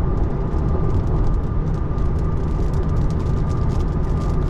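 Steady tyre and road noise from a 2024 Tesla Model 3 driving on a wet freeway, heard inside the cabin, with a faint patter of raindrops hitting the car. There is no engine note, only the road rumble and a faint steady tone.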